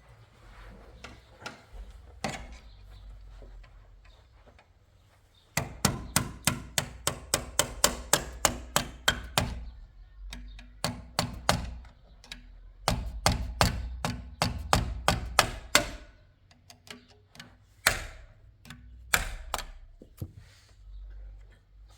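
Hammer blows on a wooden door during lock and hinge repair. They come in quick runs of about four strikes a second with short pauses between, then a few single harder strikes near the end.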